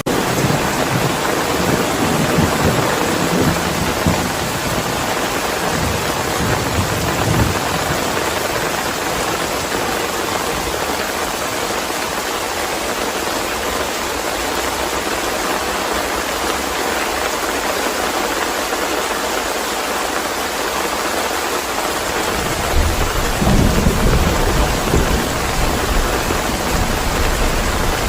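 Steady heavy rain hissing throughout, with rolling thunder rumbling low at the start and fading out. A new roll of thunder builds up about three-quarters of the way through and keeps rumbling to the end.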